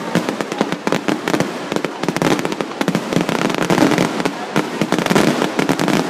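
Fireworks going off in a dense barrage: many sharp bangs and crackles a second, with no break.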